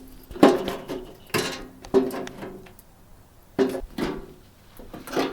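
A series of irregular metal knocks and clanks, about six in five seconds, each with a short ring, as metal parts are handled and fitted together.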